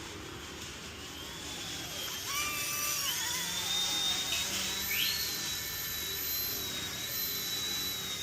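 Small electric motors of a toy RC flying machine whining. They spin up about two seconds in, with a quick rise in pitch around halfway, and settle into a steady high whine.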